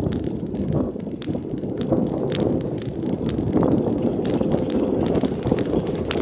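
Riding a bicycle: wind buffeting the microphone over a steady rumble, with scattered light clicks and rattles. It grows slightly louder as it goes.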